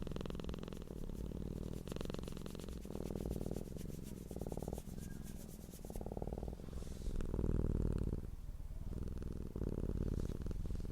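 Domestic cat purring: a steady, low pulsing rumble that changes character about every second as the purr alternates between breathing in and breathing out.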